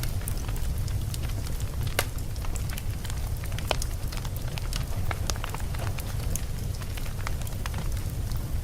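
Wood fire burning in a fireplace: a steady low rumble of flames with frequent sharp crackles and pops from the logs, a few louder snaps about two seconds in and again near four seconds.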